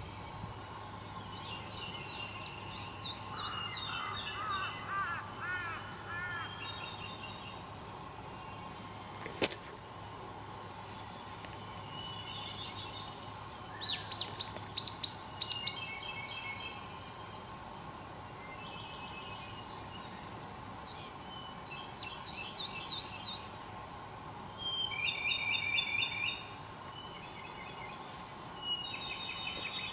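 Wild songbirds singing in short phrases of quick, high notes, several seconds apart, over a faint steady hum. A single sharp click about a third of the way through.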